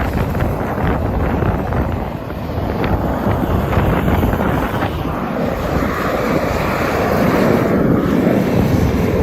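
Strong wind buffeting the microphone, a steady low rumble, with a rushing hiss that swells about halfway through.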